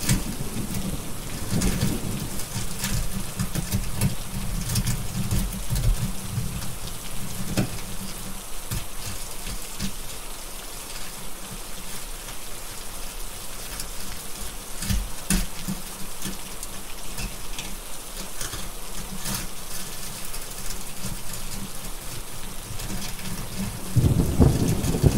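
Steady rain with thunder rumbling low in the first couple of seconds and again near the end, and scattered sharp crackles of a wood fire throughout.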